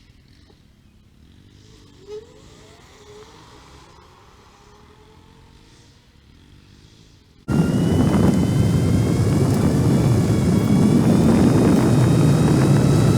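A moving vehicle: a loud rushing noise with a steady whine that rises slightly in pitch. It starts suddenly about halfway through, after a faint stretch.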